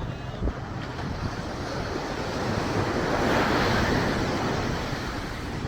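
Ocean surf breaking and washing up the beach, swelling to a louder rush about halfway through, with wind buffeting the microphone.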